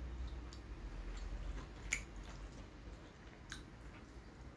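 People chewing pizza with their mouths, faint and wet, with two sharp little clicks, about two seconds in and again about three and a half seconds in.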